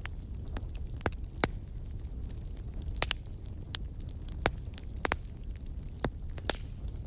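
Fireplace fire crackling: a steady low rumble of flames with irregular sharp pops, the loudest about one and a half seconds in and again about four and a half seconds in.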